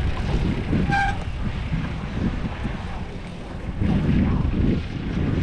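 Wind buffeting a GoPro's microphone while riding a bicycle: a low rumbling noise that swells and fades. A brief high tone sounds about a second in.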